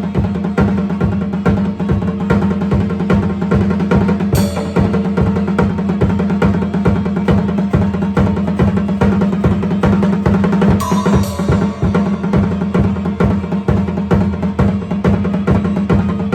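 Drum kit played at a fast, steady pace over the music of a pirate-metal song, with a continuous rapid run of strokes. Cymbal crashes ring out about four seconds in and again near eleven seconds.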